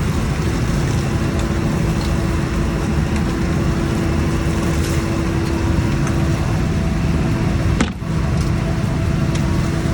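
Steady drone of a scallop fishing boat's engine and machinery, a constant hum over a low rumble, briefly dipping about eight seconds in.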